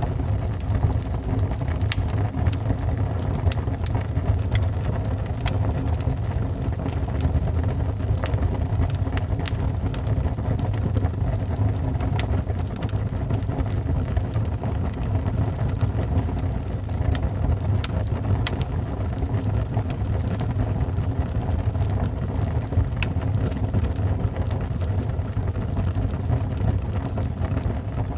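Wood fire burning in a fireplace: a steady low rumble with scattered, irregular crackles and pops from the logs.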